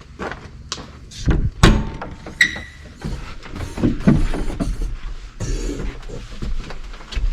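A door being handled: irregular knocks and clanks, one loud bang about a second and a half in, and a short high squeak a second later.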